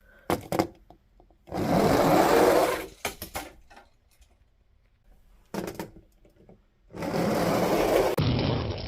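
Die-cast toy vehicles rolling down a plastic track with a rattling rumble, twice, each lasting a second or more. Short plastic clacks come before and between the runs.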